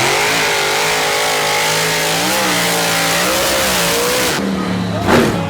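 Mini monster truck engine running under throttle, its pitch wavering up and down as it revs. The sound changes about four and a half seconds in.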